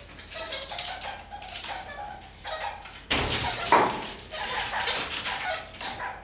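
Red-crowned parakeets (kakariki) chattering in a run of short, quick chirping calls. About three seconds in comes a sudden louder clatter lasting about a second.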